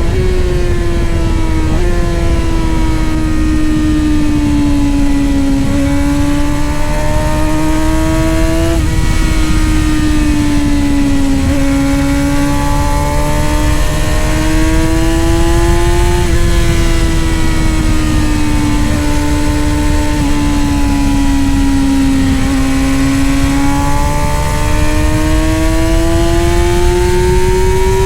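Middleweight superbike racing motorcycle engine running hard at high revs, its pitch sliding down and climbing again several times with small sudden jumps as the rider brakes, shifts and accelerates. A steady loud rushing noise runs underneath throughout.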